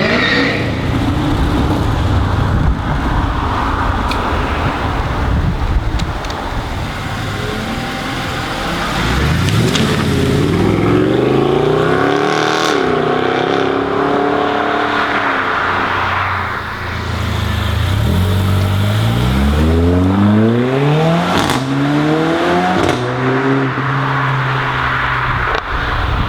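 Mercedes-AMG car engine, loud, revving up and falling back, then accelerating hard with the pitch climbing in several steps as it shifts up through the gears.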